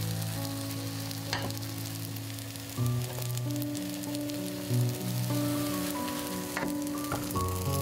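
Pancake frying in hot vegetable oil in a pan, sizzling steadily, with background music playing over it.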